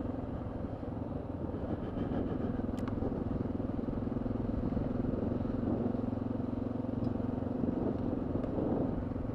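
Honda XR650L's air-cooled single-cylinder engine running at a steady, even pace while the bike is ridden along a gravel road.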